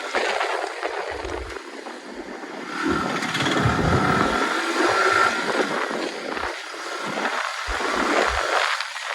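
Wind rushing over a phone microphone on a moving motorcycle, with road and engine noise underneath and uneven low buffeting thumps.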